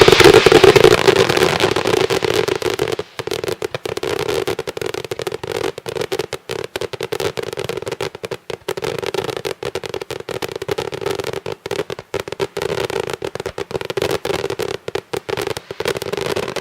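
Daytime fireworks: a long, dense barrage of firecracker bangs going off in rapid succession without a break, loudest in the first couple of seconds.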